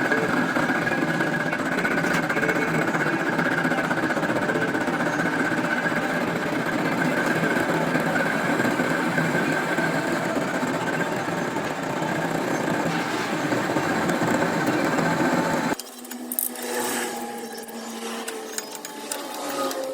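A motorised tool running with a steady rapid mechanical rattle, cutting off abruptly about 16 seconds in, followed by lighter irregular clicking and clatter.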